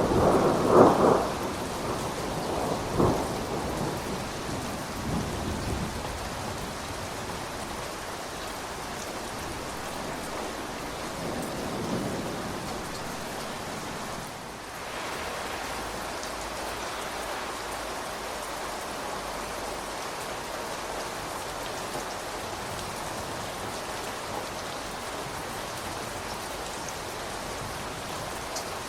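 Steady rain falling, with a roll of thunder in the first few seconds that swells several times and dies away; after that only the even hiss of rain, which dips briefly about halfway through.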